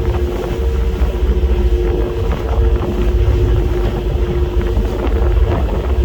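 Wind buffeting the microphone on the open deck of a moving passenger ferry, a heavy fluctuating rumble, over the ferry's steady engine drone.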